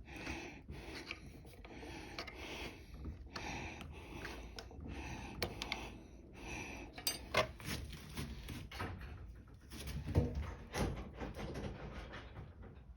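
Rubbing and scraping of hand tools working a rubber fuel hose and its clamp off a lawn mower carburetor, with a few sharp metallic clicks.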